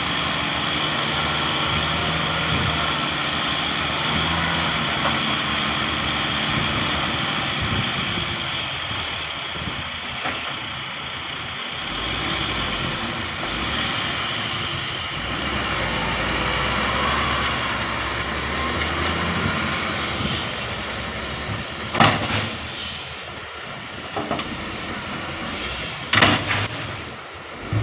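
Heavy diesel earthmoving machinery, dump trucks and a bulldozer, running steadily under load, with two sharp loud bangs near the end.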